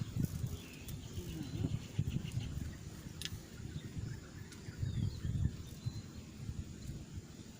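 Outdoor ambience: uneven low rumbling on the microphone, like wind gusts, with a few faint high bird chirps.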